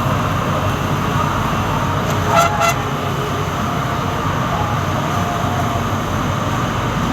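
Steady low background rumble, with two short horn-like toots in quick succession a little over two seconds in.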